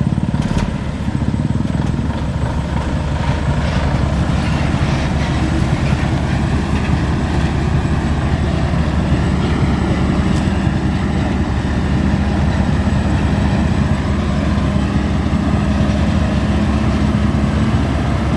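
Nissan Diesel truck's diesel engine running steadily.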